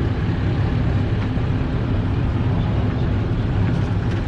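An engine running steadily with a low rumble, with no clear change in speed.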